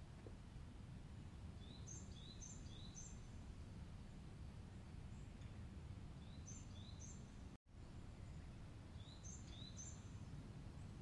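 Quiet woodland ambience with a low steady rumble, over which a small bird calls in short phrases of two or three quick, high, rising chirps, about two seconds in, again around seven seconds and near nine seconds. The sound cuts out for an instant a little past the middle.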